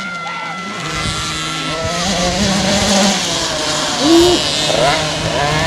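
Motocross motorcycles' engines running and revving on the track, the engine noise swelling about a second in and rising and falling in pitch.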